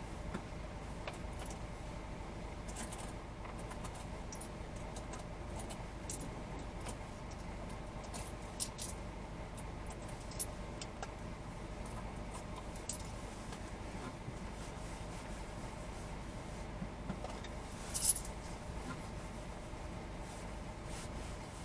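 Steady low rumble with scattered light metallic clicks and rattles, and one louder jingling clatter about 18 seconds in.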